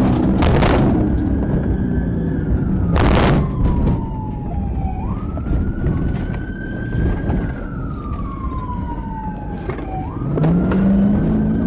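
Police car siren wailing in slow cycles, each tone falling slowly and then sweeping back up, over engine and road noise from the pursuing car. There are two short, loud bursts of noise in the first few seconds.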